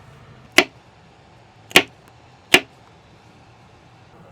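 Kitchen knife chopping potatoes on a cutting board: three sharp chops about a second apart.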